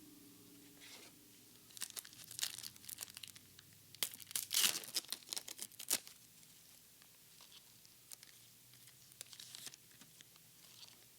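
Foil wrapper of a Japanese Pokémon card booster pack being torn open and crinkled, in crackly bursts: loudest about four to six seconds in, with lighter rustling near the end.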